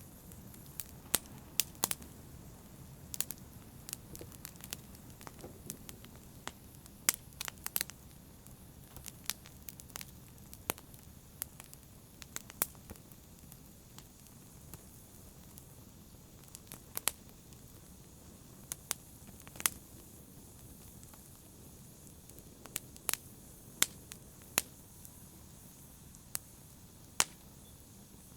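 Wood fire in a fireplace crackling, with sharp pops at irregular intervals, one or two a second, over a steady low rush of burning.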